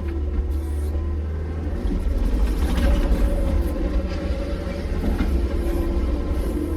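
A heavy engine running steadily with a low rumble, with some small clatter and scraping over it.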